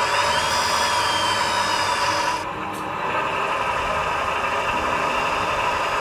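Steady rasping whir of a small motor, with a faint rising whine in the first second or so; the higher hiss drops away about two and a half seconds in.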